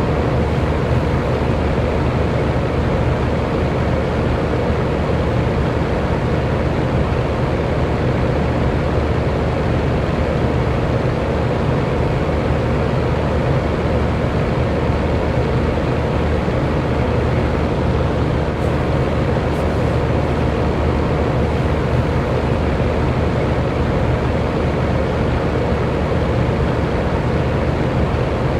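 Electric fan running steadily: an even whooshing of moving air with a low motor hum, no change in speed.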